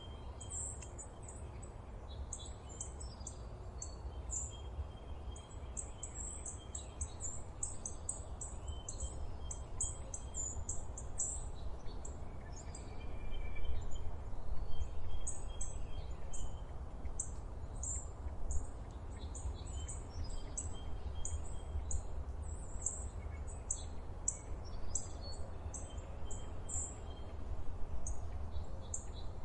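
Forest birdsong: several small birds chirping in quick high-pitched notes, with fainter short whistles, a little louder about halfway through, over a steady low rumble.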